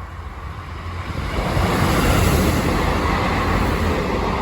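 A passing train: its noise grows louder from about a second in and then holds steady.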